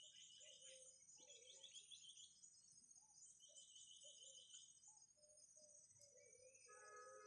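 Faint chirping of small birds in repeated short pulsed phrases over a steady high insect trill, with soft low calls here and there.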